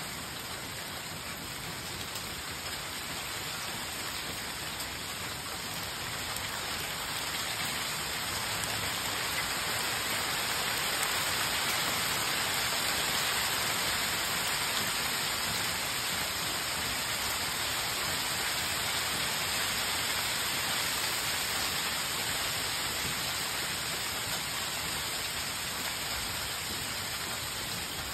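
Steady heavy rain falling on leaves, pots and the ground, building louder over the first ten seconds or so and easing slightly near the end.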